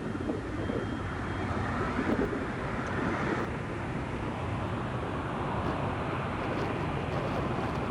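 Steady jet airliner engine noise, with no sharp events.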